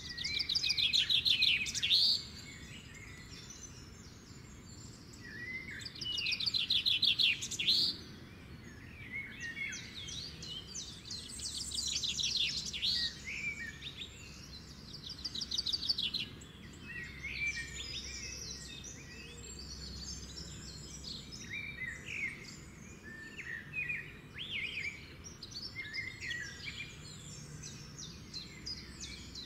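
Songbirds singing. There are loud rapid trills at the start, again around six seconds, and again around twelve and fifteen seconds, with softer scattered chirps in between and toward the end.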